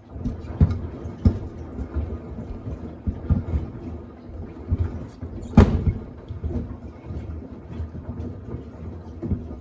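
Samsung WD70T4047CE washer-dryer drum turning during a wash, with sneakers tumbling and thudding irregularly against the drum; one thud about halfway through is loudest. It starts suddenly and stops near the end, the drum's usual turn-and-pause rhythm during washing.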